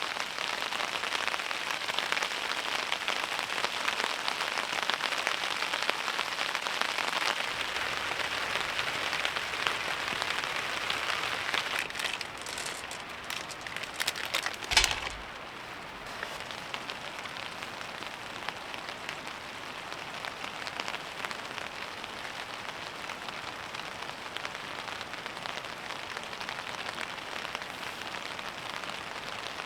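Steady heavy rain pattering on a surface. About halfway through comes a brief loud knock, after which the rain is quieter.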